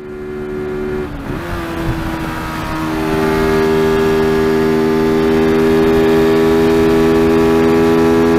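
TVS Apache RTR 200's single-cylinder engine running hard at highway speed. Its pitch dips and comes back about a second in, then holds steady at high revs near the red line, getting louder over the first few seconds.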